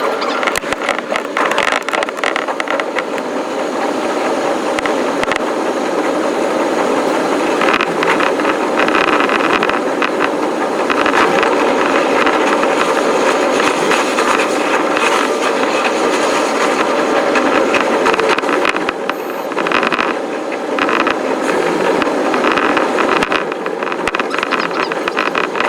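Electric commuter train's running noise, sped up five times: a dense, steady rattle of wheels on rail with rapid clicks running through it.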